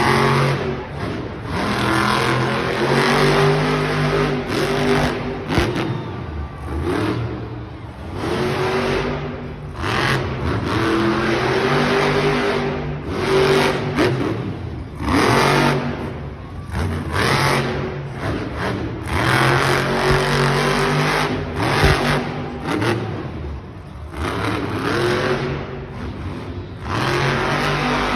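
Monster truck's supercharged V8 engine revving hard again and again, the pitch climbing and falling with short dips between bursts.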